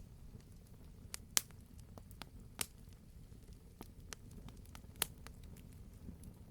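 Wood fire burning in a fireplace: a low steady rumble of flames with scattered crackles and sharp pops, the loudest pops at about one and a half, two and a half and five seconds in.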